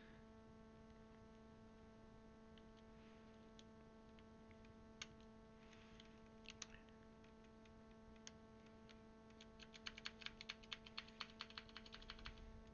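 Faint clicking of keys on a Das Keyboard mechanical keyboard with Cherry MX Blue switches: a few single clicks, then a quick run of many clicks over the last three seconds, over a faint steady hum.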